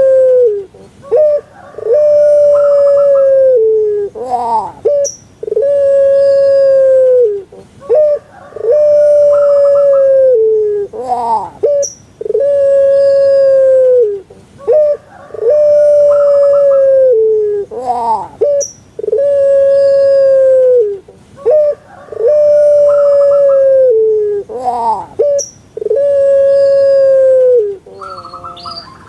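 Puter pelung dove (long-voiced domestic dove, Streptopelia risoria) cooing over and over. Each call is a long held note that drops at the end, followed by a short rising-and-falling rolling phrase. The call repeats about every three seconds, nine times in all.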